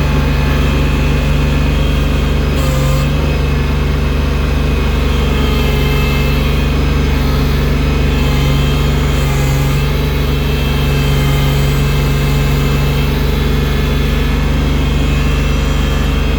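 Engine of a snow-clearing machine fitted with a loader bucket running steadily under work, with a few brief, slight swells as the load changes.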